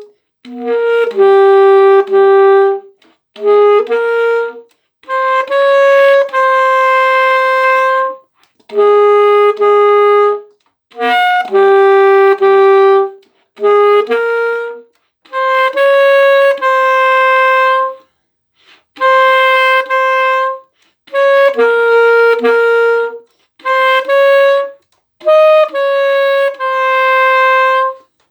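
Alto saxophone playing a slow, unaccompanied melody, one note at a time, in short phrases of about one to three seconds with brief breaks between them.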